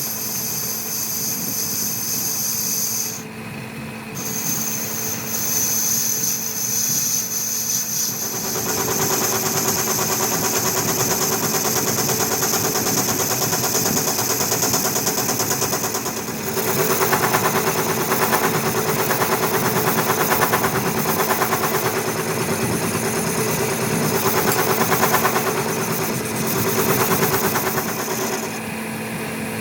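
Power machine tool running with a steady hum and a fast, even rattle. It grows louder about eight seconds in and again about sixteen seconds in.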